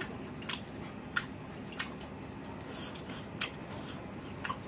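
A man chewing a mouthful of rice and pork, with sharp wet mouth smacks about half a dozen times at irregular intervals.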